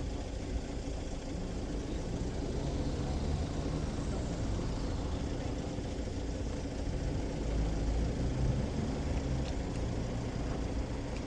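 Road traffic: car engines running, some idling, with a steady low rumble that swells a little about two-thirds of the way through as a vehicle passes closer.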